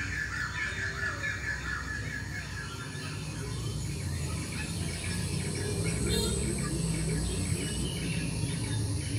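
Small birds chirping in quick trills, loudest in the first couple of seconds, over a steady low background rumble.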